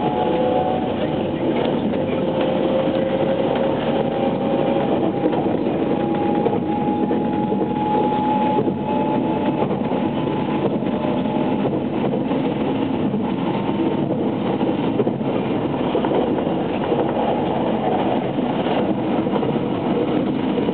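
Running noise of a JR West 683 series 2000 subseries electric train (Toshiba IGBT VVVF drive), heard inside the passenger car at speed: a steady rumble with a faint whine that rises slightly in pitch over the first several seconds, and occasional clicks from the wheels.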